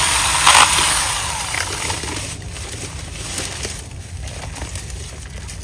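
Battery-powered mini chainsaw running and cutting wood at the base of the trunk, then winding down and fading out about two seconds in. A steady low rumble continues underneath.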